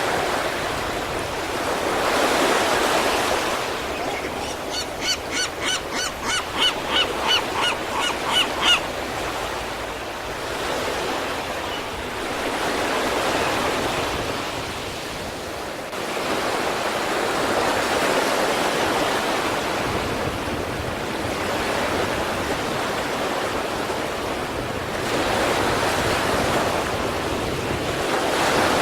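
Sea waves breaking and washing on the shore, the surf swelling and easing every few seconds. From about five to nine seconds in, a run of about eight short, high pitched calls or honks, two a second, grows louder and stops.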